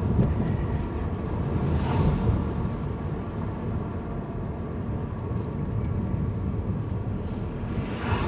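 Steady low road and engine rumble heard inside a moving car's cabin, with tyre noise from a rough, worn road surface.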